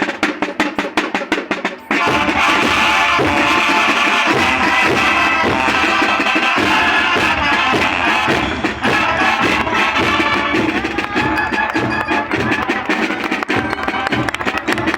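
Student marching band: a rapid run of drum strokes for about two seconds, then the full band of brass and drums comes in together and plays steadily.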